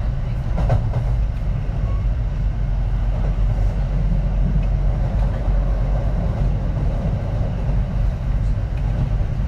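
Running sound inside a Kintetsu 3220 series train car under way: a steady low rumble of wheels on rails and the car's running gear.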